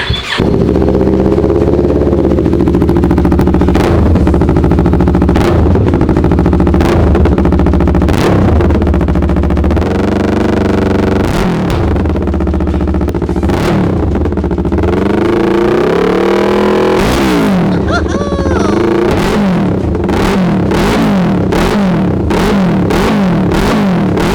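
Yamaha YZF-R3's parallel-twin engine running through a newly fitted aftermarket titanium exhaust, very loud. It starts just after the opening, runs fairly steadily, climbs in a rev around two-thirds of the way in, then is blipped up and down about once a second near the end.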